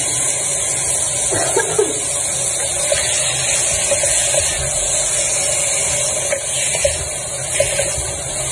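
Chicken strips frying in hot oil in a pot: a steady sizzle, with the wooden spatula scraping and knocking against the pot every second or so as they are stirred.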